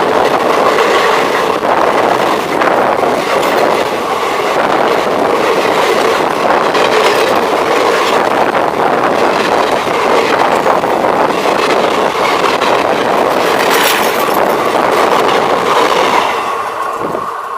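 Indian Railways express train rushing past close by, coach wheels clattering over the rail joints with some wheel squeal; the noise drops off sharply near the end.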